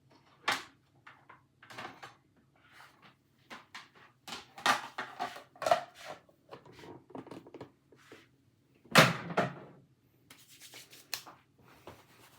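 Kitchen handling noise: an irregular run of knocks, scrapes and clatters as things are moved about, with a sharp knock about half a second in and the loudest clatter about nine seconds in.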